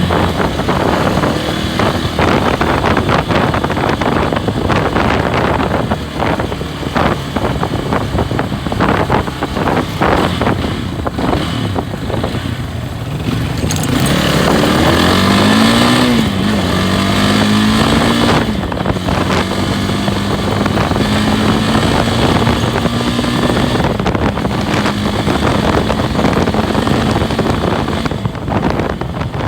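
Loncin SX2 250 motorcycle engine running under way, with heavy wind buffeting on the microphone. About halfway through, the engine pitch rises and falls a few times, then holds steady and slowly climbs.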